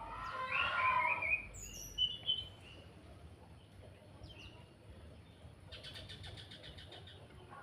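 Chestnut-capped thrush (anis kembang) singing: a loud, varied phrase of quick whistled notes in the first second and a half, then a few short whistles, and about six seconds in a fast, even rattle of clicks, the crackling 'kretekan' call.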